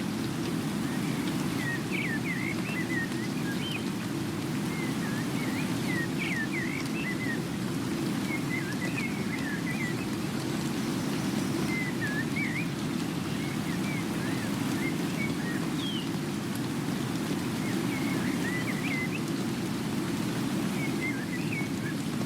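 Steady rain falling, with birds giving short, quick chirping calls in small clusters every few seconds.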